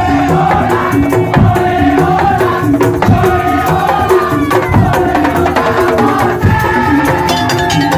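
Madurese tong-tong (ul daul) ensemble playing: dense, driving drums and struck percussion under a stepping melody.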